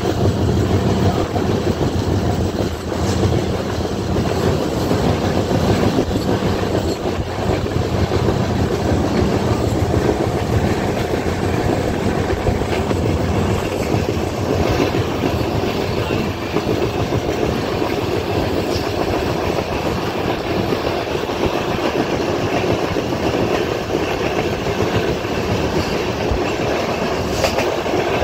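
Indian express train running at speed on a curve, heard from the side of a moving coach: a steady, loud running noise of steel wheels on the rails.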